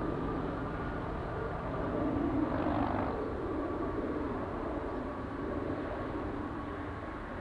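Jet engines of an Airbus A380-800 airliner running during its landing: a steady rumble with a faint high whine, swelling slightly a couple of seconds in.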